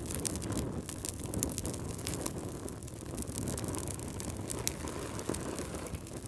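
Fire crackling in a fireplace: a low rumble of flames with frequent small, sharp pops and crackles.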